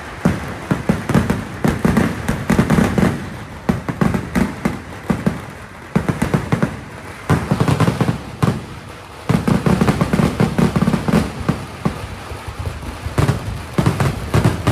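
A fireworks barrage of firecrackers going off in a rapid, dense string of bangs. It eases briefly about six seconds in and again about eight and a half seconds in, then picks up again.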